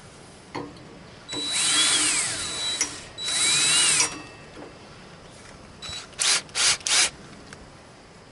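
Power drill run at low speed, drilling out tack welds in the mower hood's sheet metal: two bursts of about a second and a half and a second, its whine rising and falling in pitch with the trigger, then three quick short blips.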